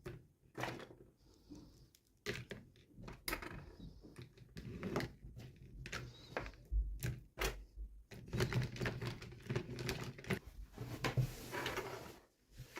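Hands unboxing small plastic toys and packaging: irregular clicks, taps and short scrapes, with a longer stretch of crinkling rustle near the end.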